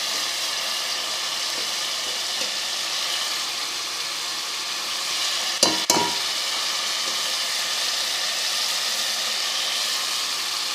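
Kofta masala sizzling steadily in ghee in a steel pot, with two sharp metal knocks close together a little past halfway, typical of a spatula striking the pot while koftas are lifted out.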